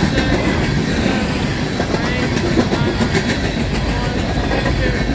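Empty steel coal hopper cars rolling past close by, their wheels clicking over the rails above a steady rumble. A low engine drone grows in near the end as the rear distributed-power locomotives approach.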